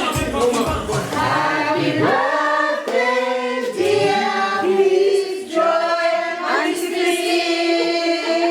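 A group of voices singing together in harmony, holding long notes.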